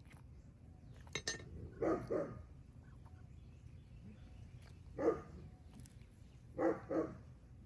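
Muscovy ducks giving short calls: two in quick succession about two seconds in, one about five seconds in, and two more near the end. A few quick clinks sound just before the first calls.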